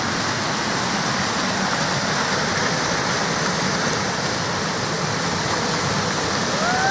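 Waterfall: falling water making a steady, loud rushing noise.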